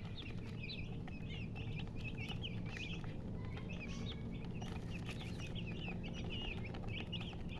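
A group of chickens chirping: many short, high chirps overlapping in a continuous chatter, over a steady low background hum.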